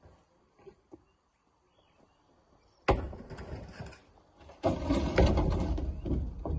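Quiet for about three seconds. Then a sudden crash of rock landing in the steel bed of a dump truck, followed a little later by a longer stretch of rocks clattering and knocking as they are loaded.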